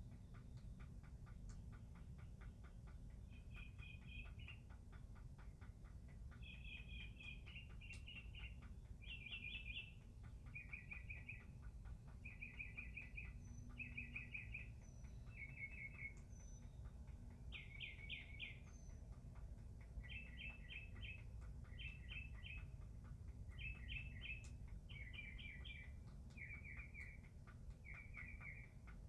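A songbird singing short trilled phrases over and over, about one every second and a half, over a low steady background rumble. A fast, faint ticking runs under the song for the first several seconds and then fades.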